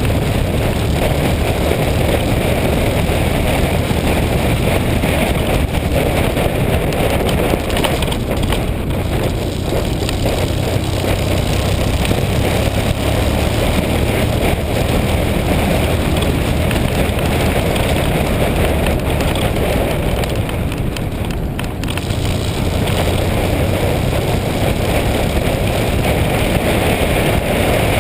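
Motorcycle running along the road, with a steady engine hum under wind rushing over the microphone; the sound eases briefly about three-quarters of the way through.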